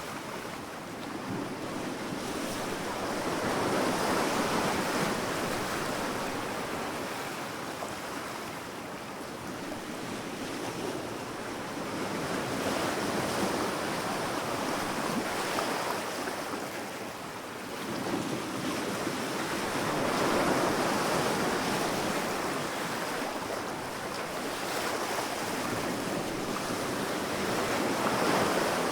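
Ocean surf breaking and washing up a sand beach, a steady rush that swells and eases in slow surges every several seconds.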